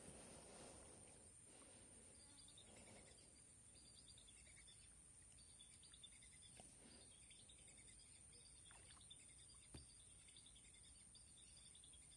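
Near silence: faint field ambience with a steady high-pitched whine and soft repeated chirps, and a single soft click late on.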